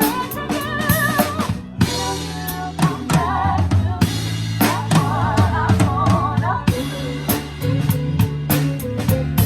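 Live band music led by a close-miked drum kit: bass drum, snare and cymbal hits keep a steady beat throughout. Under it a bass line plays, and a lead instrument plays a wavering melody.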